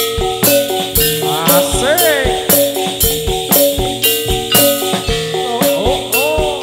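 Live Javanese gedruk dance music: metallophones play a repeating melody over drum beats, with a sharp metallic rattle on every beat, about twice a second. A gliding voice or melodic line slides up and down twice over it.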